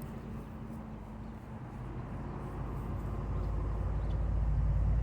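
Low engine rumble of a passing motor vehicle, growing steadily louder through the second half.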